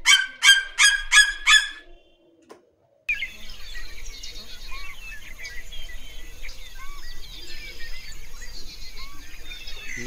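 A bird calling a quick series of about six loud, harsh repeated notes in the first two seconds. About three seconds in, a chorus of many small birds chirping and twittering starts over a steady high hiss, like a woodland soundscape.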